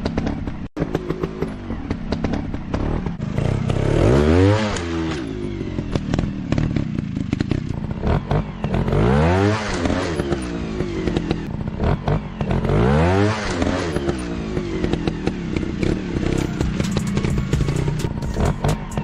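Off-road trail motorcycle engine running, revved up and back down three times, about every four to five seconds, with clattering from the bike between the revs.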